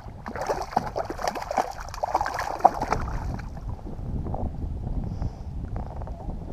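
Water splashing and lapping against a kayak, busiest in the first three seconds, over a steady low rumble of wind on the microphone.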